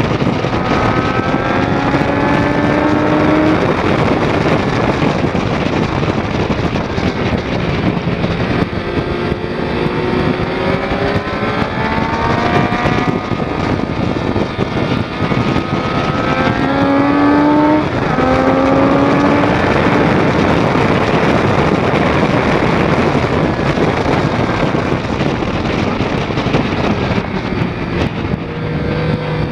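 2006 Triumph Daytona 675's three-cylinder engine pulling hard under acceleration. Its pitch climbs and drops away again several times as the gears change, under heavy wind rush on the microphone.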